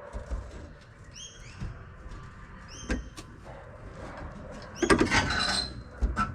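Metal knocks and a brief clattering rattle from the hoist chain and engine as the engine is lowered into the engine bay, loudest about five seconds in, with a thump near the end. A short chirping call repeats in the background.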